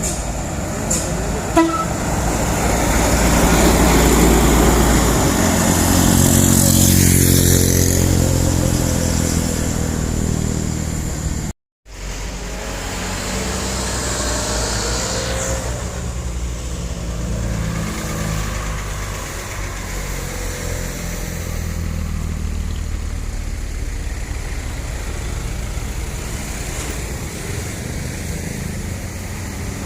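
A heavy truck laden with sugarcane passes close with its engine working hard, growing loud over the first few seconds and then fading. After a sudden cut, another truck engine runs steadily.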